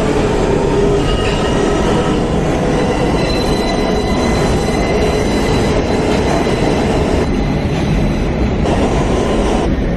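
New York subway J train running between stations, heard from inside the car: a steady rumble of wheels on rail, with a thin high wheel squeal in the middle. The high hiss drops away near the end.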